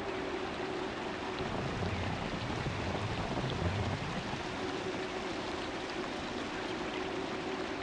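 Steady rushing wind and tyre noise from a bicycle moving at speed on the road, with a steady hum underneath and a low rumble swelling briefly partway through.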